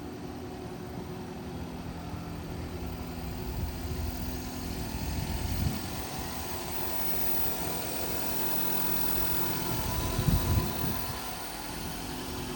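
1995 Subaru Vivio's 658 cc four-cylinder kei-car engine idling steadily soon after a cold start, briefly getting louder twice.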